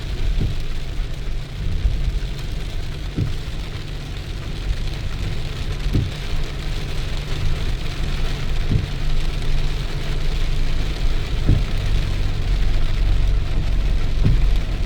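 Steady rain with a deep rumble underneath and a short soft tick repeating about every three seconds.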